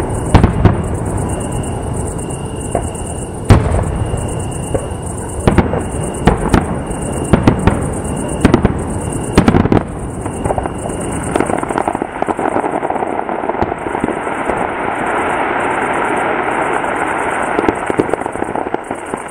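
Fireworks display: shells bursting in sharp bangs about once a second, then from about halfway through a dense, continuous crackling of many small crackle stars.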